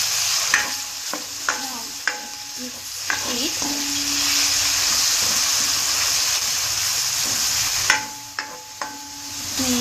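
Chicken pieces and chopped garlic sizzling steadily in hot oil in a metal wok. A spatula stirs and scrapes them, clicking against the pan several times, with a dip in the sizzle near the end.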